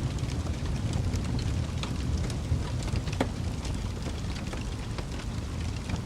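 Wood fire crackling: scattered sharp pops and snaps over a steady low rumble of burning, with one stronger pop about three seconds in.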